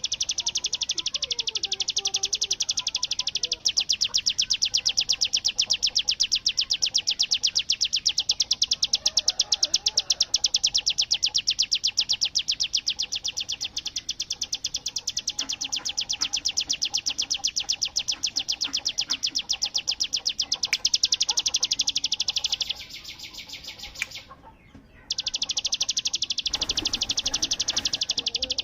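Mountain prinia (ciblek gunung) singing a continuous, very rapid machine-gun rattle of high notes, the 'bren' style prized by Indonesian songbird keepers. It falters and stops for about a second near the end, then starts again.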